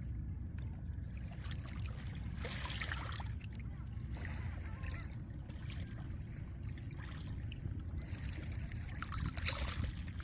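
Small lake waves washing over a pebble shore, with hissing surges about two seconds in and again near the end, over a steady low rumble of wind and surf.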